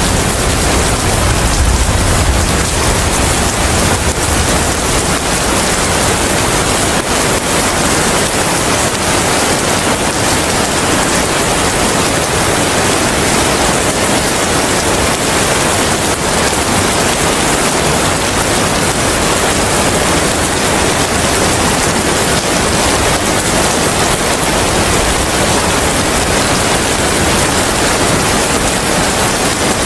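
Steady rain falling, an even hiss without breaks. A low rumble in the first couple of seconds fades away.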